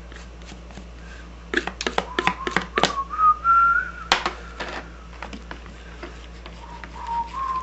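A person whistling a slow tune, the pitch stepping up and down. A quick series of sharp clicks and knocks comes between about one and a half and three seconds in, and a single sharp knock about four seconds in.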